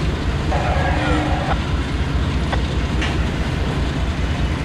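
A train rolling past, with a steady heavy low rumble of wheels on rail and a few faint clicks.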